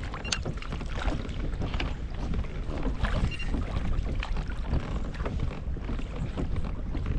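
Water lapping and splashing irregularly against the hull of a Pelican Catch 110 fishing kayak in small wind-driven waves, over a steady low wind rumble on the microphone.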